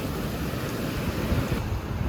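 Sea surf washing in, with wind buffeting the microphone. The high hiss thins out about one and a half seconds in.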